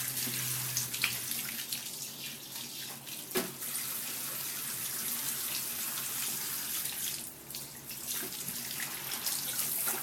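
Water running from the bathtub tap onto a wet cat being rinsed of shampoo, a steady splashing hiss with a few short knocks.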